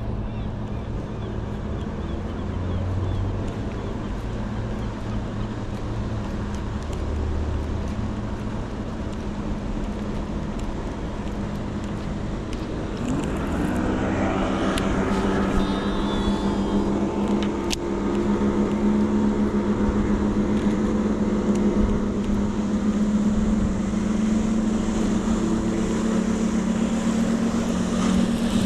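Motorboat engine running with a steady drone. About halfway through its pitch rises and it grows louder, as if the boat is speeding up or coming closer.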